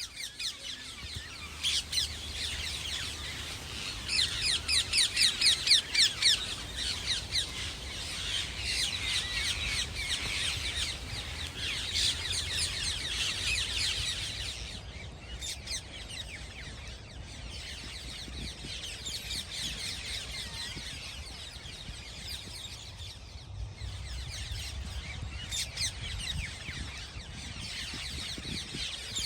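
A large flock of rose-ringed (ring-necked) parakeets screeching, with many shrill calls overlapping in a dense chorus. It is loudest a few seconds in, thins out in the middle and swells again near the end.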